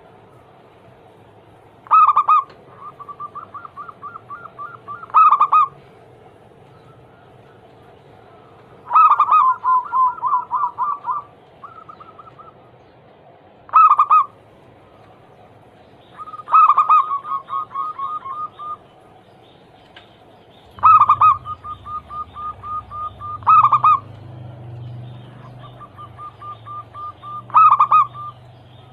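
Zebra dove (perkutut) cooing its song: loud ringing coos every few seconds, each followed or preceded by a quick train of softer, stuttering notes.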